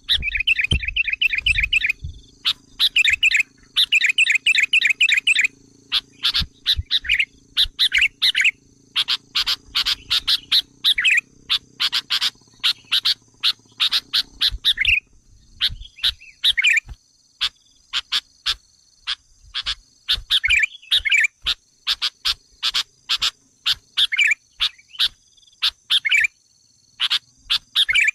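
Sooty-headed bulbul (kutilang) calling: quick bursts of sharp chattering notes and fast trills, one after another with short pauses. This is the agitated, noisy calling used to provoke wild bulbuls.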